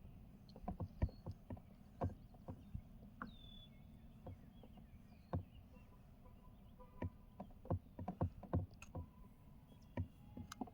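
Light, irregular knocks and clicks of fishing gear handled on a kayak, over a low steady rumble of water and wind.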